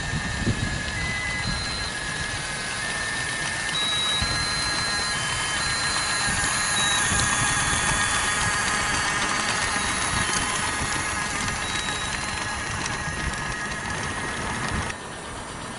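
Model train running on garden railway track, with a thin electronic tune of held notes playing over it. It cuts off abruptly near the end.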